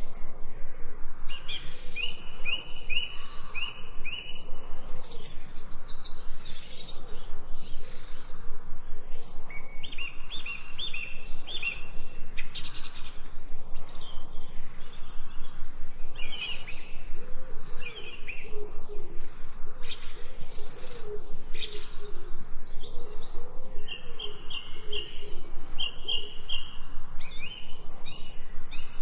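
Several forest birds singing together in a dense chorus of quick chirps. Through it run repeated phrases of four or five short, evenly spaced whistled notes. Lower-pitched calls join in the middle.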